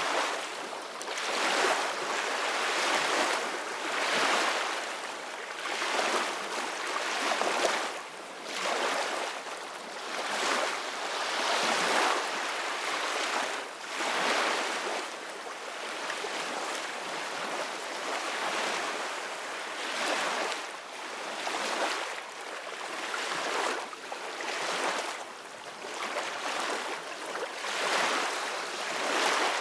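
Ocean waves washing in, a rushing hiss that swells and falls every second or two.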